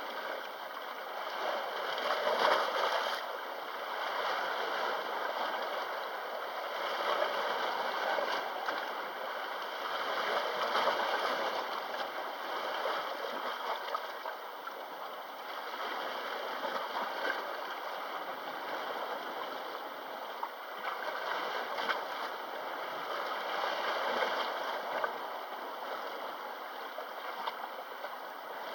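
Gentle sea waves washing and lapping at the shore, swelling and easing every few seconds.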